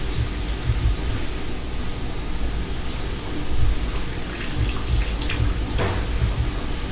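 Water running and splashing in a kitchen sink, a steady rushing noise with a strong uneven low rumble. A few clicks and a short falling squeak come in the second half.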